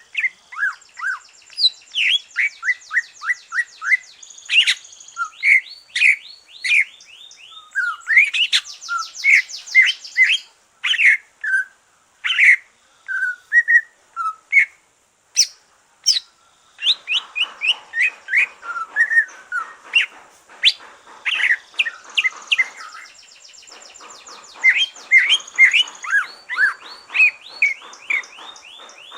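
A cucak ijo (green leafbird), a caged songbird just through its moult, singing a fast, varied song of sharp chirps, down-sliding whistles and rapid trills, with hardly a pause. A faint hiss sits under the song from about halfway through.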